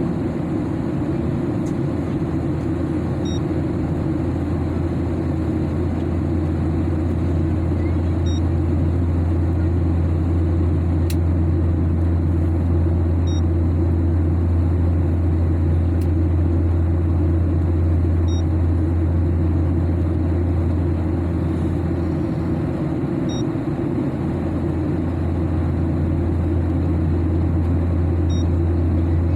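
Steady airliner cabin noise: a loud, even low drone with rushing air. A faint, short high beep repeats about every five seconds.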